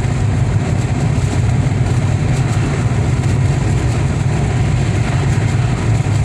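Steady low rumble of a running vehicle, engine and road noise without changes in pitch.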